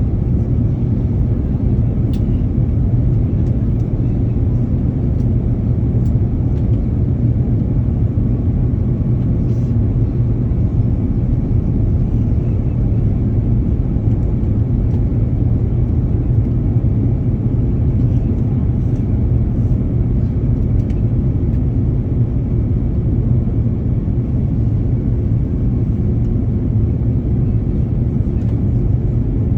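Airplane's steady low rumble, holding even without rising or falling.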